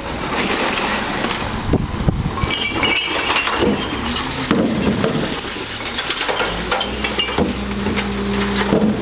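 Recyclables, glass bottles and cans, clinking and clattering as they are tipped into a refuse truck. The truck runs underneath, and a steady hum takes over about two-thirds of the way in.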